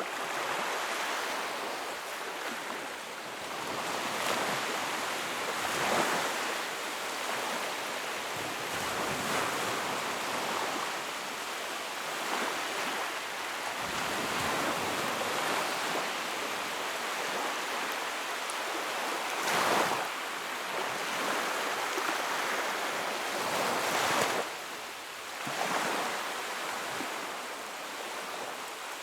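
Wood fire burning in a fireplace: a steady rushing hiss with crackles and a few louder pops, the strongest two late on, about four seconds apart.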